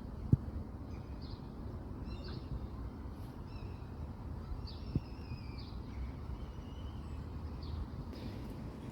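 Small birds chirping in short scattered calls over a steady low rumble of background noise. Two sharp clicks stand out, one just after the start and one about five seconds in.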